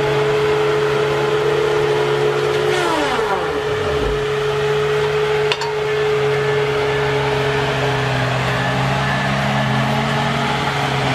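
Heavy machine engine running steadily, with one tone dropping sharply in pitch about three seconds in and a short click about halfway through.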